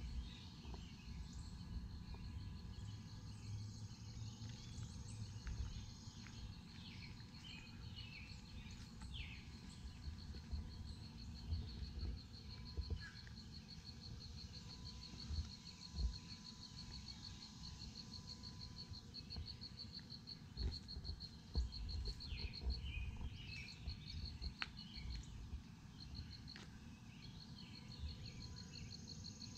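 Insects trilling steadily outdoors, a fast pulsed high trill that breaks off briefly near the end, with scattered bird chirps. A low rumble and a few soft thumps run underneath.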